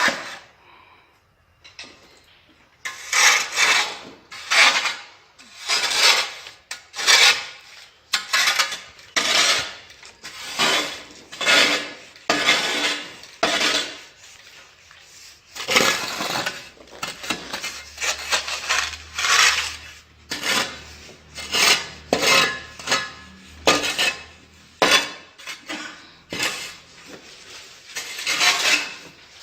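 Mason's steel trowel scraping over mortar and tile in quick repeated strokes, about one or two a second, starting a few seconds in.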